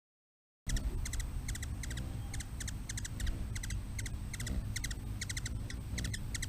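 Rhythmic clicking animal calls: short trains of sharp clicks repeated about twice a second, over a low rumble. The calls start abruptly a little under a second in.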